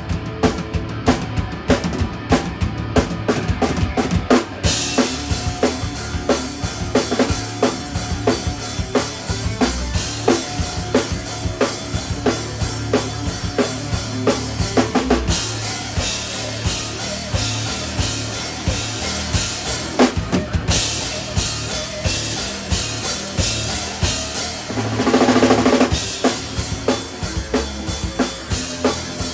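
A three-piece instrumental band playing live, with a busy drum kit driving steady kick and snare hits. Cymbals wash in about five seconds in, and a louder held note rings out near the end.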